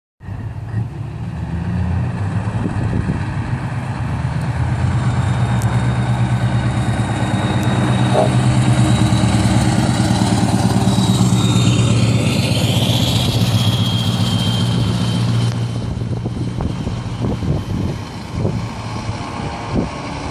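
Heavy truck's diesel engine driving past, growing louder toward the middle and fading over the last few seconds, with a thin high whine around the middle.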